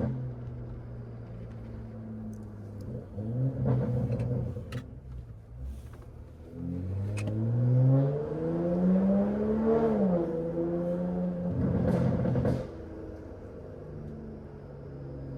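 Straight-piped, catless BMW 540i B58 inline-six exhaust under way: the engine note holds steady, then rises in pitch for about three seconds midway before dropping off. There are brief, louder rough bursts of exhaust noise about four seconds in and again near twelve seconds.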